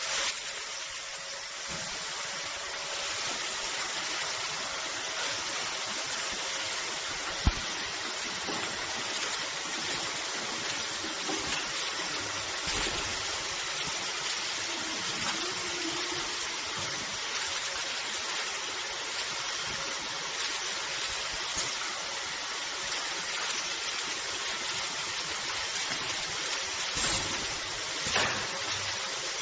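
Square-bottle washing machine running, its water jets spraying with a steady hiss over a faint machine hum. There is one sharp click about seven seconds in.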